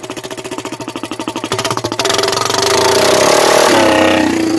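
Honda 300EX ATV's single-cylinder four-stroke engine running with an open exhaust, its muffler off. It pulses steadily at idle, then about two seconds in it is revved up and eases back down.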